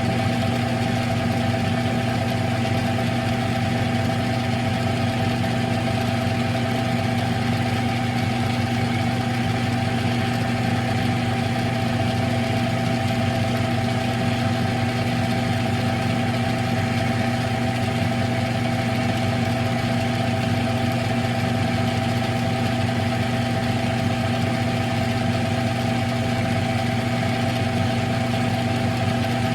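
Smithy CB-1220XL combination lathe running at a steady speed, its motor and gearing giving a constant hum with a whirring noise over it.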